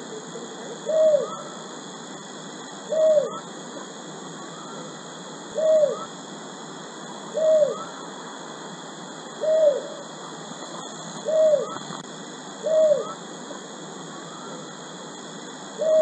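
A bird's short, low note that rises and falls, repeated about seven times at intervals of roughly two seconds, over a steady hiss.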